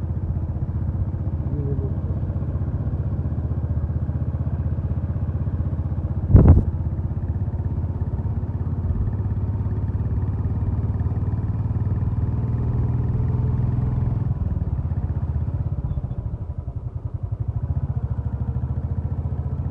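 Royal Enfield Bullet's single-cylinder engine running steadily under way, with its close, even pulsing exhaust beat. There is one sharp thump about six seconds in, and the engine eases off slightly near the end.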